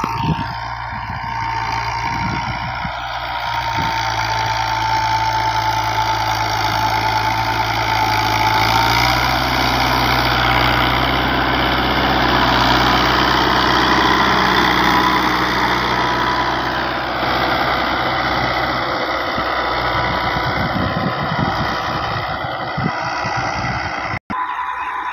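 New Holland 85 hp tractor's diesel engine running steadily, its note shifting about nine seconds in.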